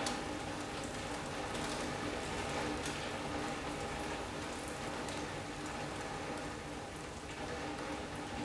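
Steady rain from a passing squall line falling on a sunroom, with scattered sharp ticks of individual drops over an even hiss.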